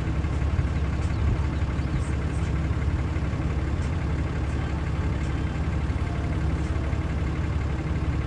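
A vehicle engine running steadily at low revs, a constant low hum.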